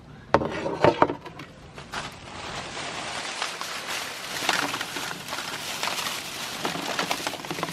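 Crisp pani puri shells cracking and crunching as a meat grinder crushes them: a few sharp cracks in the first second, then steady dense crackling.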